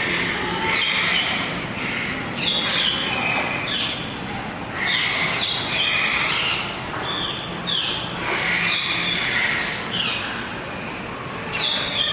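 Captive birds squawking: harsh, repeated calls every second or two, some overlapping.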